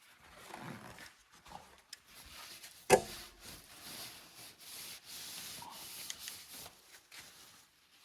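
Rubbing and scraping inside a freshly honed cylinder bore of a Hercules IXA engine block as it is handled and felt, with one sharp knock about three seconds in.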